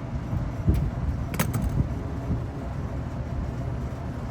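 A steady low rumble, with a low knock under a second in and a quick cluster of sharp clicks about a second and a half in, from wires and hand tools being handled at an air-conditioning unit.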